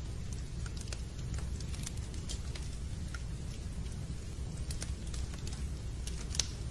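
Fireplace crackling: a steady low rumble of the fire with scattered small pops, and one sharper pop near the end.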